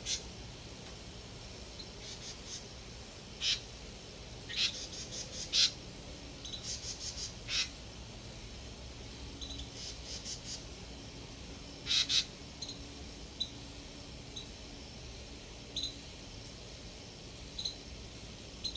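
Small birds chirping: short high calls, some single and some in quick runs of several, scattered over a steady faint hiss.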